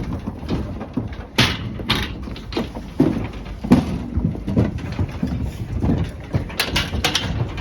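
A vehicle engine running steadily, with several short sharp knocks or rattles over it.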